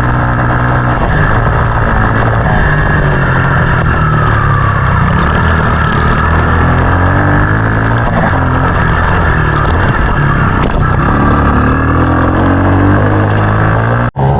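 Small dirt-bike engine running hard and close, its pitch rising and falling as the throttle changes. It cuts off abruptly just before the end.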